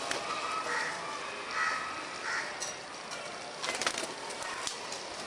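Birds calling on a roof while feeding on scattered grain, with short chirping calls in the first half. A quick cluster of sharp clicks comes a little under four seconds in.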